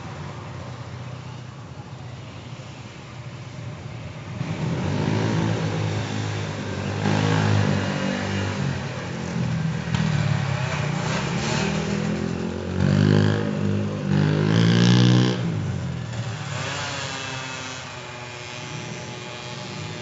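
Noisy motorcycle engine coming closer about four seconds in, revving hard with rising and falling pitch, loudest near the middle, then dropping in pitch as it passes and fading away.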